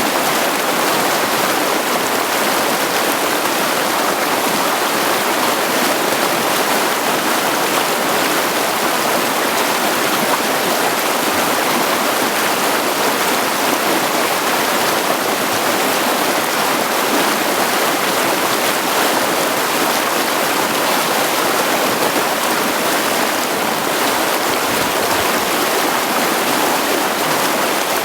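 Mountain creek running over rocks: a steady, loud rush of water splashing and burbling among the stones.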